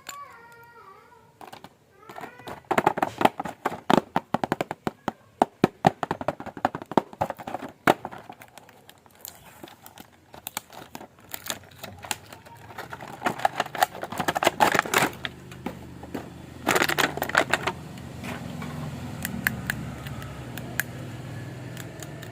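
Many quick clicks and taps of a plastic action figure and its packaging being handled, with two bursts of crinkling plastic in the second half.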